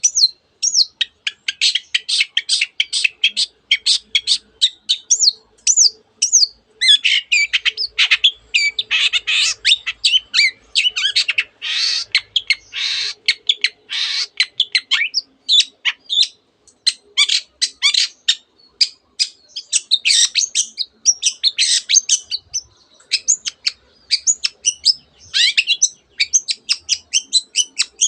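Long-tailed shrike singing a rapid, almost unbroken run of short chirps and trills, packed with mimicked phrases of canaries and other birds.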